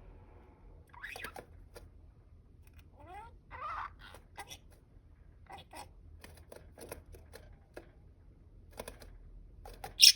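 Budgerigars making scattered soft chirps and warbles among quiet clicks and scratches, with a short rising chirp about three seconds in.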